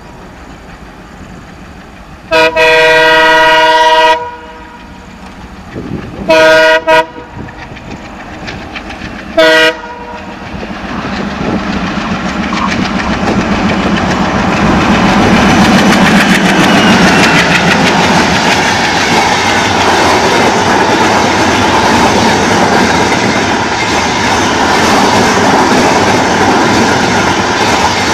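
An Indian Railways diesel locomotive sounds its multi-tone horn as it approaches: one long blast, then a quick double blast and another short one. The train then comes up and passes close by, growing louder into a steady rush of coaches going by, with the wheels clattering over the rails.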